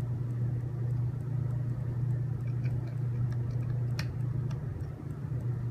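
Small clicks and taps of plastic cable connectors being handled and pushed into a robot controller board, with one sharp click about four seconds in. A steady low hum runs underneath.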